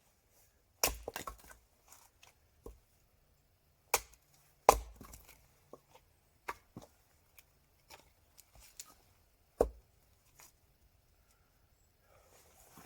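Firewood being chopped: four hard woody strikes spread over about ten seconds, with lighter knocks and cracks between them.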